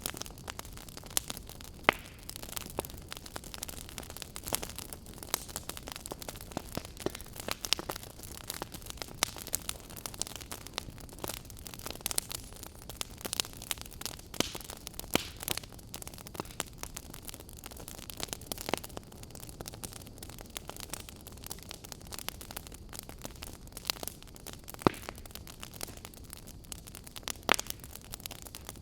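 Wood fire burning in a fireplace, crackling with frequent irregular sharp pops over a steady soft hiss.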